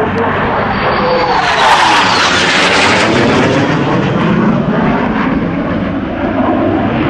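Jet aircraft flying past, a loud jet roar that swells to its peak about two seconds in, with a whine that falls in pitch as it goes by.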